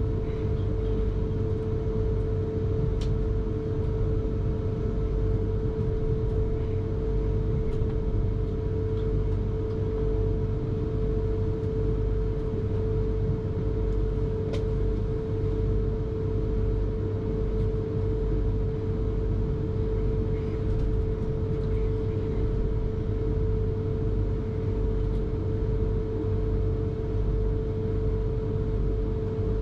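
Electric commuter train running steadily between stations, heard from inside the carriage: a continuous low rumble of wheels on track with a constant hum, and a few faint clicks.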